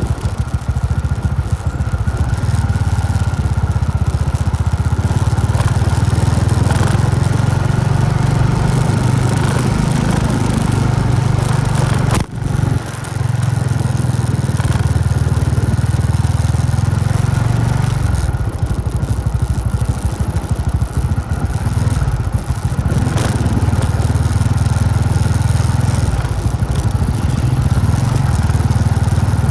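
Motorbike engine running steadily while riding, with a brief drop in sound about twelve seconds in.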